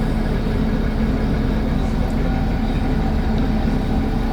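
Vintage railbus diesel engine idling steadily with a low, even hum.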